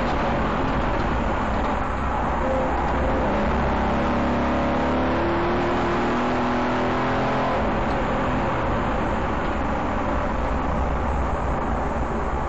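Aston Martin Vantage's engine heard from inside the caged cabin, its pitch rising steadily as the car pulls through the revs in the middle, then easing off about eight seconds in. Steady road and tyre noise runs underneath.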